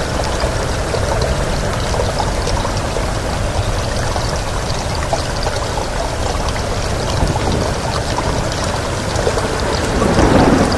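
Steady rain with wind, a dense even hiss dotted with small drop ticks, swelling briefly near the end.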